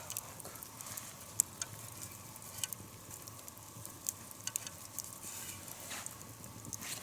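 Wood campfire crackling, with irregular sharp pops over a steady hiss, while a pot of soup cooks on it.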